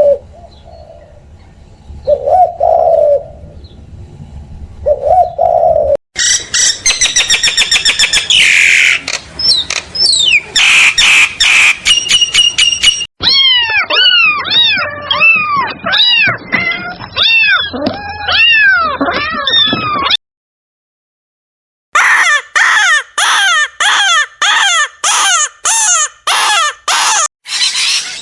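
A run of different bird calls, one clip after another: two low calls a couple of seconds apart, then dense high-pitched song, then rapid repeated chirps that rise and fall. After a two-second silence comes a fast series of short, harsh calls, about two a second.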